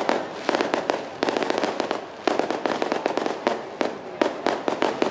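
Fireworks going off as rapid, dense cracking bangs, in clusters that start again about every second.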